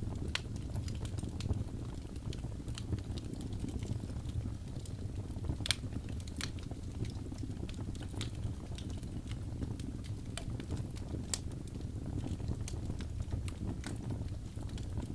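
Wood fire crackling in a fireplace: a steady low rumble of flames with frequent sharp snaps and pops. Two louder pops come about six and eleven seconds in.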